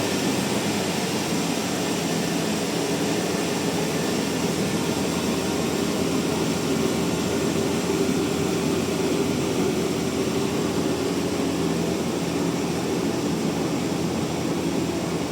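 Large log bandsaw mill running with a steady, unbroken drone.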